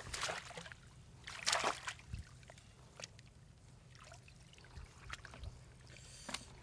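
Shallow water sloshing and splashing in a few separate bursts, the largest about a second and a half in, over a faint steady low hum.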